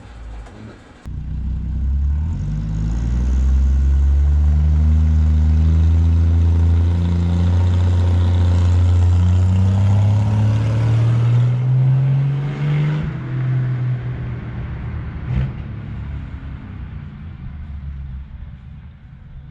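Plymouth slant-six engine breathing through a temporary exhaust with a cherry bomb style muffler, accelerating with the pitch climbing steadily for about ten seconds. Then the throttle lifts and it drops back to a lower, quieter running note, with one sharp click partway through that.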